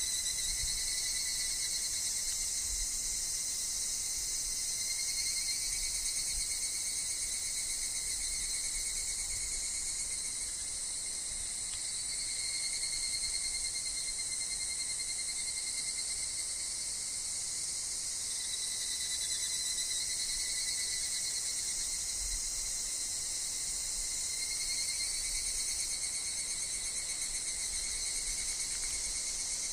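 Cicada chorus with higurashi (evening cicadas, Tanna japonensis) calling: a steady, dense high shrill, with pitched calls that swell and fade every few seconds.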